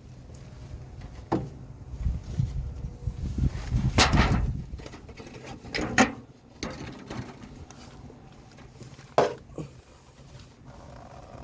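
A few separate knocks and clunks, with low rumbling handling noise between about two and five seconds in, as the radiator is worked loose and lowered out of the truck.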